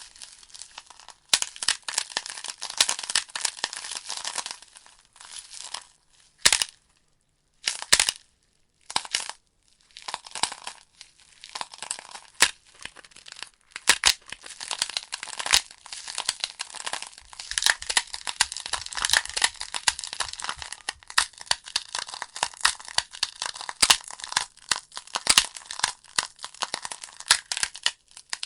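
Wood fire crackling in a fireplace: dense irregular crackles and sharp pops from burning logs, thinning to a few isolated pops with brief lulls about seven to ten seconds in.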